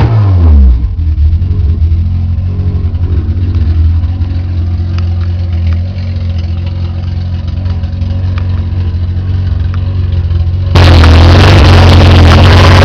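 Freshly built Honda B20 VTEC engine (B20B block, B16A1 head) on its second start, the revs falling off a blip in the first second and settling into a steady idle. Near the end, loud music cuts in suddenly over it.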